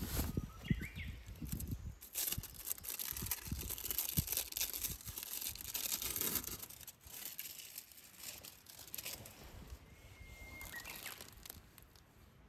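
Rustling and crinkling handling noises with scattered small knocks, and a bird chirping briefly near the start and again about ten seconds in.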